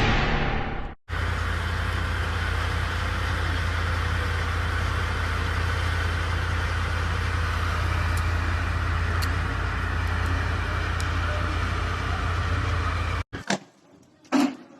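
A vehicle engine idling, a steady low rumble that cuts off abruptly near the end, followed by a couple of faint knocks. The tail of the intro music fades out in the first second.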